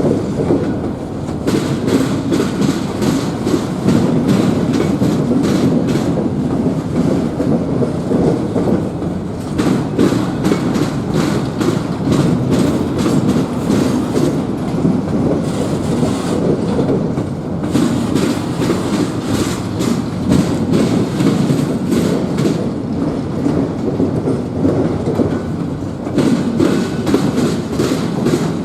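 A train's cars rolling past with a steady rumble and the clickety-clack of steel wheels over rail joints.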